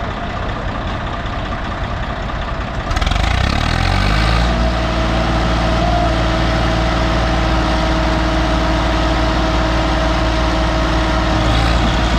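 Diesel tractor engine running, then revving up about three seconds in and holding steady at high revs.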